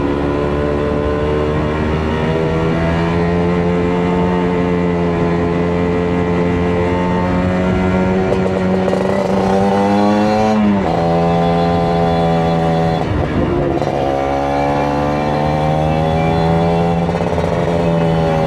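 Kawasaki Ninja RR 150's two-stroke single-cylinder engine running under way, its pitch creeping up as it pulls through a gear. About ten seconds in, the revs jump briefly and then drop sharply at an upshift, then climb steadily again.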